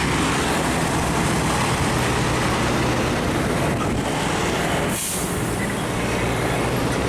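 Heavy truck diesel engines running in slow-moving traffic, a steady low drone with road noise. About five seconds in there is a brief hiss of air, like an air brake.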